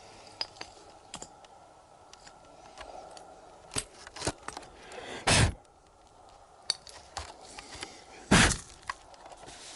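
Digging by hand in a bottle dump: scattered small clicks and clinks of dirt and debris being scraped and shifted, with two heavier thumps about five and eight and a half seconds in.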